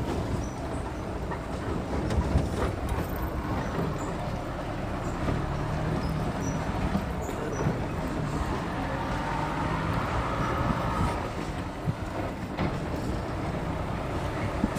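Safari vehicle driving on a forest track: steady engine and road rumble with scattered knocks and rattles.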